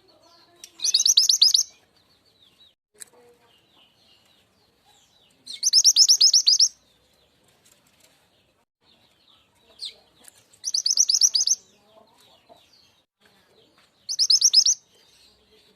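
Mantenan gunung (truntung weru) song played as a lure call. It comes in four short bursts of rapid, high trilled notes, each under a second long and a few seconds apart, with faint chirps between.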